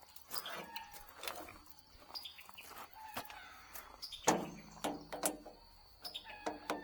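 Metal parts of a portable sawmill clanking and clinking as they are handled, a string of sharp knocks that each ring briefly, the loudest about four seconds in and a quick cluster near the end.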